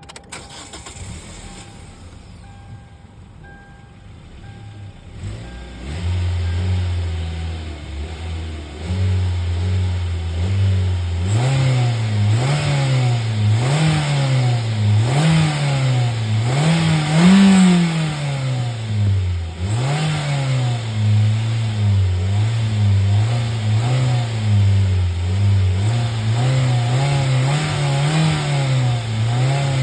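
A car engine comes in about five seconds in and runs at a steady note. From about eleven seconds on it is revved up and down over and over, roughly once a second.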